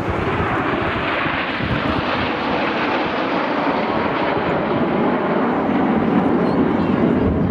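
Jet noise from Red Arrows BAE Hawk T1 jets with Adour turbofans flying past, a steady rushing sound.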